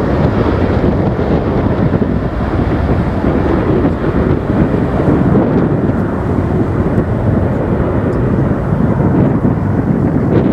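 Airliner engine roar fading away, blending into a steady rush of wind buffeting the microphone.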